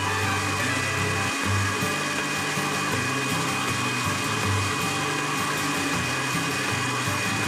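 An electric kitchen grinder motor running steadily, grinding hot peppers into adjika, over background music with a shifting bass line.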